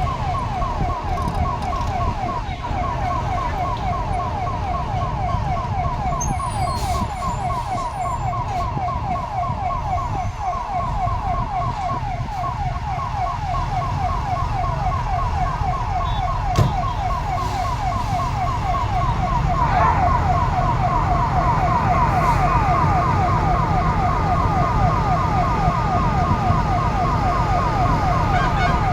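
Emergency vehicle's electronic siren in a fast repeating yelp, about three sweeps a second, with a second steady siren tone joining about two-thirds of the way through. A low engine and traffic rumble runs underneath, with one sharp click midway.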